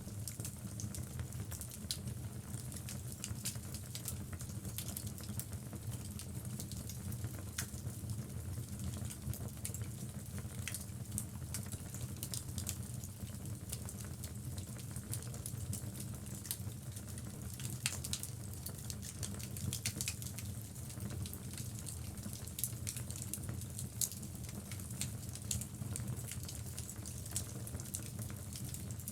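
Logs burning in a wood fireplace: a steady low rumble of flames with many irregular sharp crackles and pops from the burning wood.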